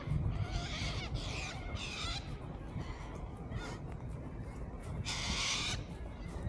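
Park birds calling repeatedly, with one louder, harsh call lasting under a second about five seconds in.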